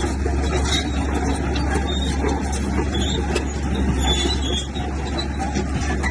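Komatsu bulldozer's diesel engine running steadily with a constant low drone, with a few light clanks over it.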